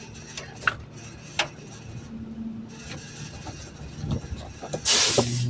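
Garbage truck running steadily, with two light knocks early and a loud burst of air hiss near the end.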